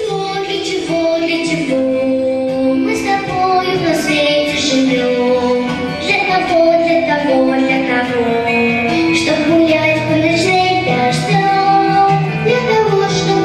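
A song sung by a young female voice over an instrumental backing track, the melody rising and falling in long held notes.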